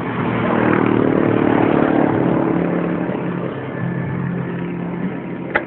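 A motor vehicle passing on the road: its engine and tyre noise swells about half a second in and fades by about three seconds. A single sharp click comes near the end.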